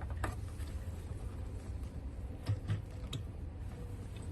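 A few light clicks and taps of parts being handled, over a low steady rumble.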